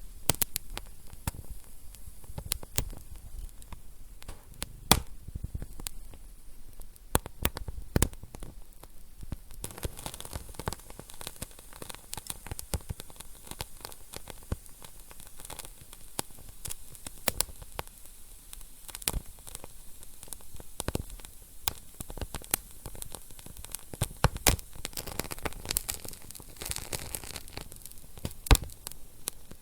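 Wood fire burning in a fireplace: irregular crackles and sharp pops over a soft hiss, a few pops standing out louder.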